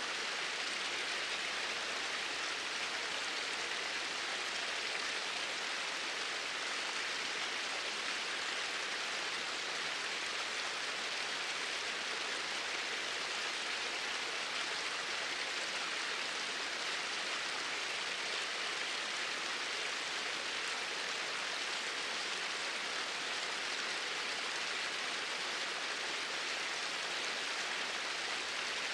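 Flowing water, a stream running with a steady, even rush.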